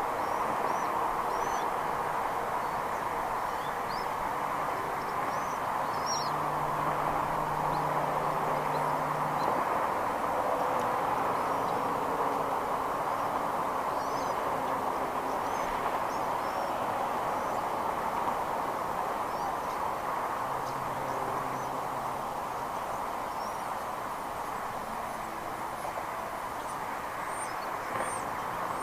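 Steady outdoor background noise with faint, scattered high bird chirps, more frequent near the end. A low, even hum rises twice for a few seconds.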